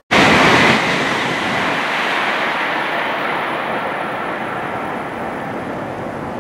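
Tokaido Shinkansen high-speed train running past a station: a loud, even rush of noise that starts abruptly just after the start and slowly fades.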